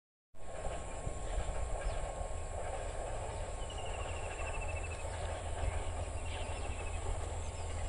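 Distant diesel power-set train running, a steady low rumble from a train still out of sight across the fields. A bird's short rapid trill sounds about halfway through.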